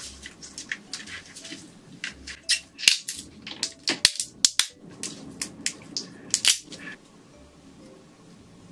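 Shrimp shells cracking close to the microphone: a run of sharp, irregular cracks and crackles that stop about seven seconds in.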